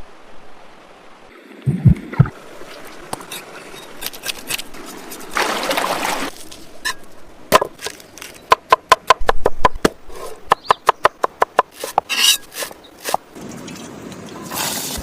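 Fish being prepared by hand: a fast run of sharp knife knocks on a board, about seven a second, with other single knocks, thumps and splashes of water around it.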